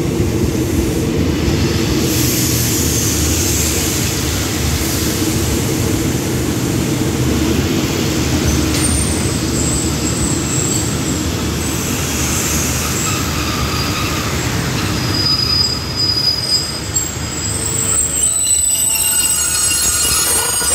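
Express passenger train running in along the platform, its carriages rolling past with a steady heavy rumble. Thin high squeals come in about halfway through as it slows, and the rumble dies away near the end as the train comes to a stop.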